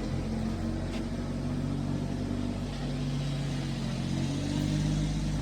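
An engine running steadily, its pitch shifting up slightly partway through.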